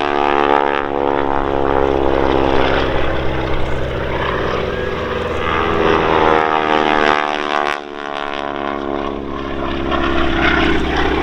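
Piston engines and propellers of a pair of display biplanes droning in flight. Their pitch falls as they pass about seven to eight seconds in, then the drone holds steady.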